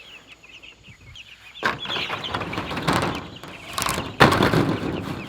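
Rustling and scraping of leftover cut pieces of material being handled and thrown onto the top of a chicken tractor, with scattered clicks and one sharp knock about four seconds in.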